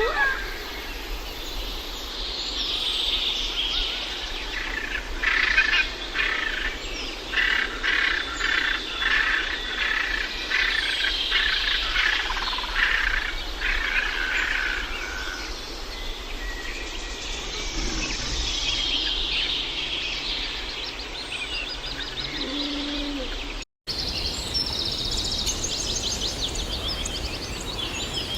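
Birds chirping and singing, with runs of rapid repeated notes, over a steady outdoor background hiss. The sound cuts out briefly about 24 seconds in, then more bird calls follow.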